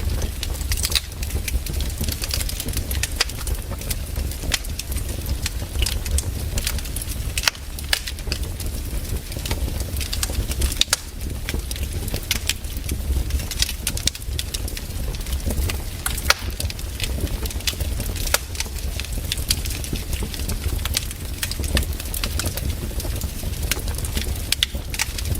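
Fireplace fire crackling, with frequent sharp irregular pops over a steady low rumble.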